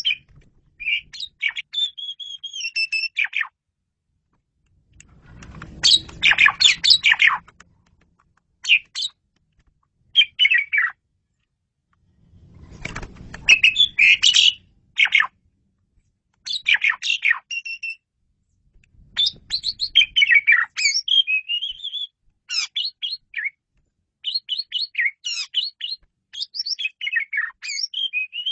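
Asian pied starling (jalak suren) singing in bouts of quick whistled and chattering notes with short pauses between them, including two harsher, rasping passages.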